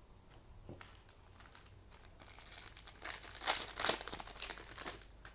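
Foil trading-card booster pack wrapper being crinkled and torn open, the crackling building up and loudest in the last couple of seconds before it stops.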